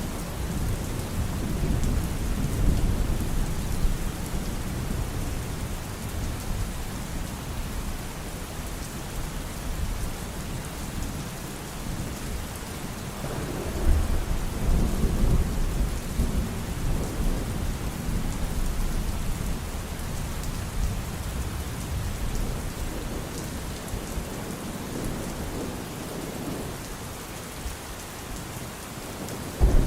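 Thunderstorm: steady rain falling with rolling thunder rumbling low, swelling about halfway through, and a sudden louder thunderclap right at the end.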